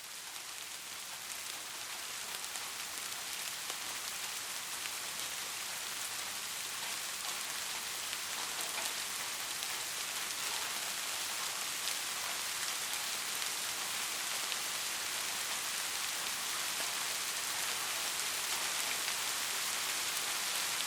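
Steady rain falling, a dense hiss of many drops with faint individual drop ticks. It grows louder over the first few seconds, then holds steady.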